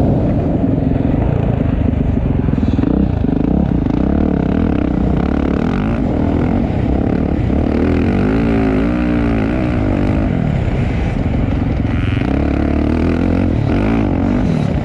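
Motocross dirt bike engines revving on the track, the pitch rising and falling as the throttle opens and closes, with a sharp rise and fall about eight to nine seconds in.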